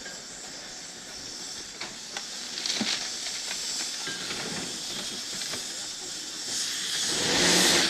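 Erie Type A steam shovel hissing steam as it works, with a few knocks in the first few seconds and a louder rush of steam near the end.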